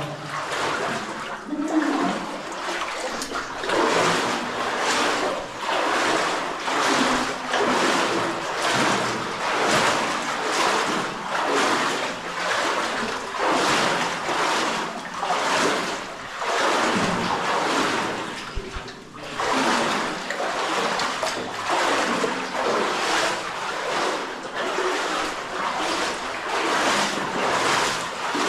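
Footsteps wading through shallow stream water, a splashing slosh with each stride at about one step every second or so.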